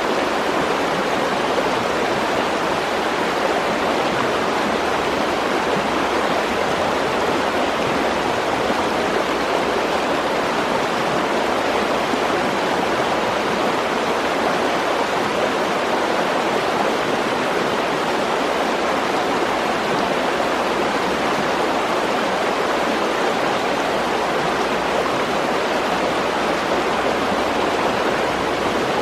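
Mountain stream running, a steady, even rush of water with no breaks.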